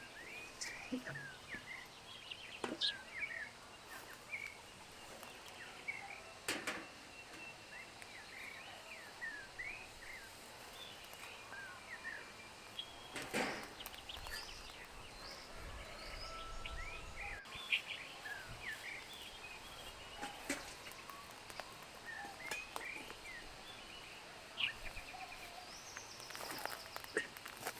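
Small birds chirping and calling on and off, many short high chirps, with a few sharp clicks or knocks now and then.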